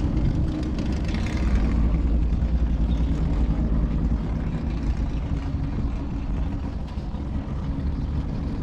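Historic muscle car's V8 engine running steadily with a deep, low rumble, its pitch holding even rather than revving.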